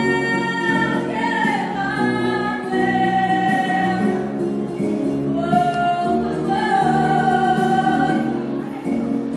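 A singer performing a song with instrumental accompaniment, holding long notes one after another.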